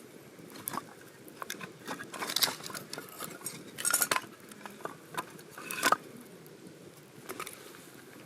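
Metal camp cookware and utensils being handled: a run of irregular clinks and clatters, the loudest about two and a half, four and six seconds in, the last with a short metallic ring.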